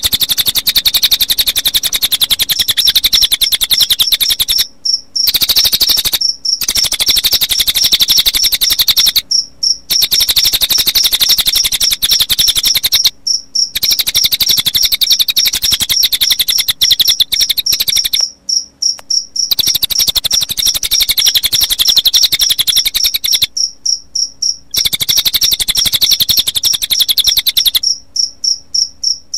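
Cililin bird song mixed with cricket chirping: a loud, fast, high-pitched trill of rapid repeated notes over a steady high ringing tone, broken by short pauses every few seconds.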